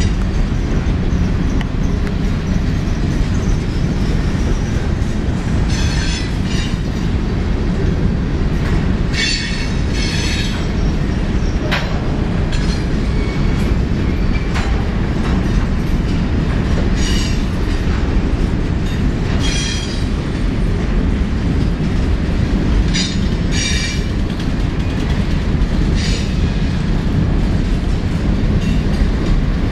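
Freight train of covered grain hopper cars rolling past with a steady heavy rumble of wheels on rail. High-pitched wheel squeal comes and goes every few seconds, and there is a single sharp click about twelve seconds in.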